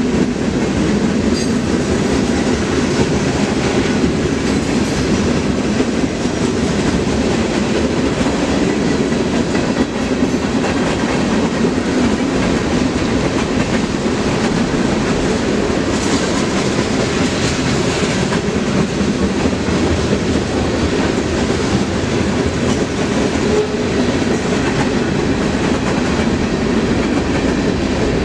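Freight train cars rolling past, a steady, continuous rumble of steel wheels on the rails.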